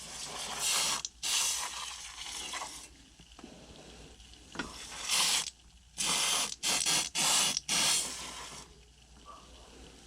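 A sprayer spraying coil cleaner onto a dirty air-conditioner coil in repeated bursts of hiss, several of them short and in quick succession near the end.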